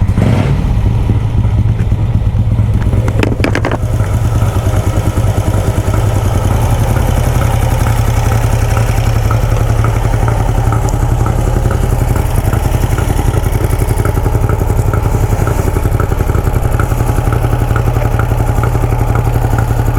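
Vincent motorcycle engine, just started, running steadily at idle, with a brief burst of noise around three seconds in.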